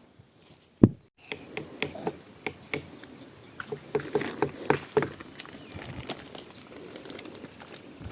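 A loud thump about a second in, then a steady high-pitched chorus of night insects, likely crickets, with scattered knocks and clicks throughout.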